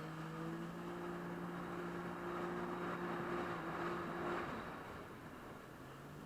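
Jet ski engine running at a steady pitch over a rushing hiss. The engine tone fades out about four and a half seconds in.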